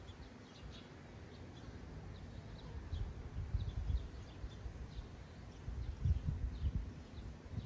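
Small birds chirping, with many short, high chirps scattered throughout, over a few clusters of low thumps and rumbling.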